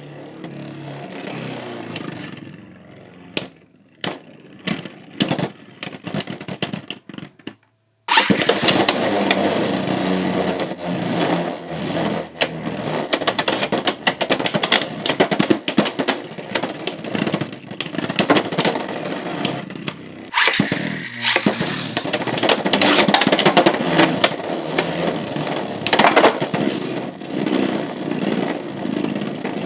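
Beyblade X tops, a gold Fox Brush J2-60U and a black Fox Brush J0-80DB, spinning and clashing in a plastic stadium: a loud, dense rattling whir full of sharp impact clicks. A few scattered clicks come first; the rattle starts abruptly about eight seconds in, breaks off briefly around twenty seconds, then starts again.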